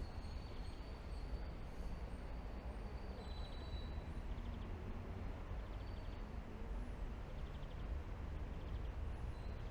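Steady rain falling over a low, continuous rumble of city traffic, with faint high chirps now and then.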